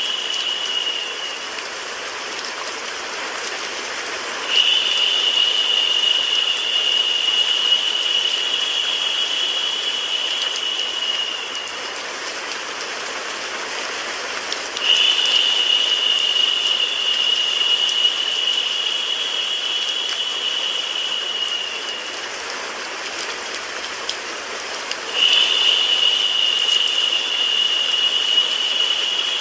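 Steady rain-and-white-noise hiss for sleep. A narrow high-pitched hum rises over it for about seven seconds at a time, roughly every ten seconds, and is the loudest part while it sounds.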